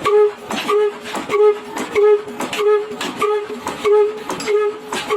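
22 HP diesel oil engine running under load driving a stone wheat grinder, its exhaust chuffing in a steady, even beat of about two to three beats a second, each beat with a short hooting note.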